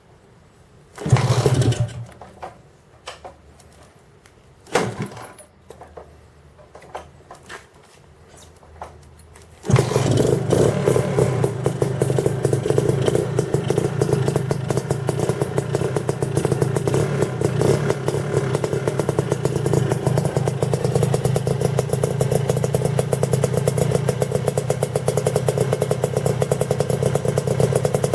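Lambretta Special's two-stroke single-cylinder engine, fitted with a 185 cc kit, a TSR Evo expansion-chamber exhaust and a 25 mm Dell'Orto carburettor. A few short knocks and bursts come first, then about ten seconds in the engine starts and runs at a steady speed with an even, fast beat.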